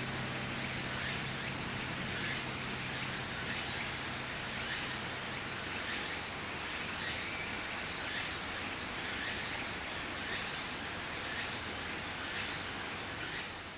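Outdoor summer ambience with insects trilling and faint repeated chirps, and a steady high insect buzz that grows stronger about a third of the way in.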